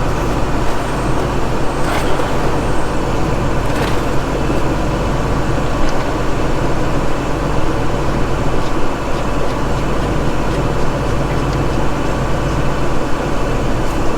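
Steady low rumble of running machinery with a constant hum, and a few faint clicks about two and four seconds in.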